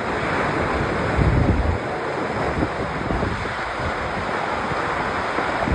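A rock slide with wind buffeting the microphone: a steady rushing roar, with a heavier low rumble a little over a second in.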